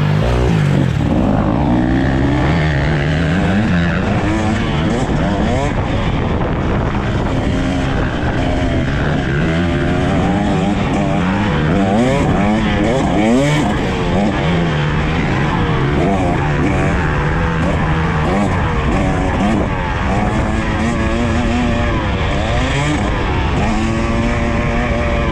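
KTM EXC 300 TBI's single-cylinder two-stroke engine revving hard and falling back again and again while riding, its pitch climbing through each gear and dropping on the shifts and off the throttle.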